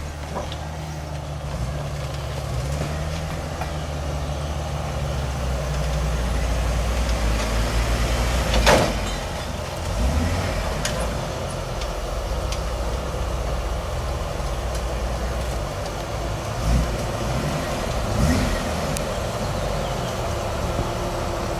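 Off-road 4x4 truck engine running under load as it crawls over rough terrain, growing louder over the first several seconds. A single sharp bang comes about nine seconds in, followed later by a few smaller knocks.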